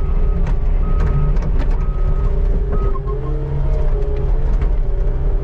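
Skid steer engine running under load with its reverse backup alarm beeping about once a second, four or five beeps that stop about halfway through, and a few short clunks from the machine.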